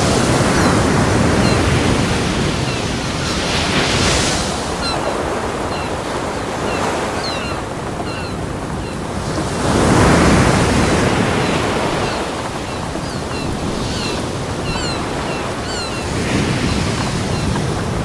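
Ocean waves breaking on a beach: a continuous surf noise that swells and ebbs every few seconds, with the biggest wave breaking about halfway through.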